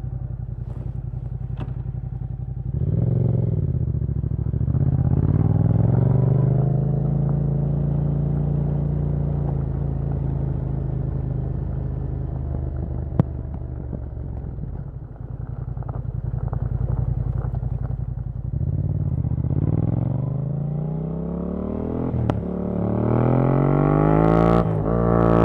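A 2019 Yamaha MT-07's parallel-twin engine through a Yoshimura R77 carbon-fibre exhaust, idling and then pulling away. It accelerates through the gears, its revs climbing and dropping several times, and holds a steady pace for a few seconds in between. A single sharp click sounds about halfway through.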